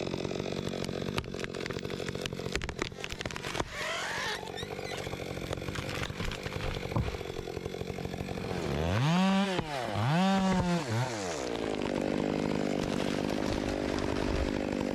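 Chainsaw engine running steadily, revved up and back down twice about nine to eleven seconds in.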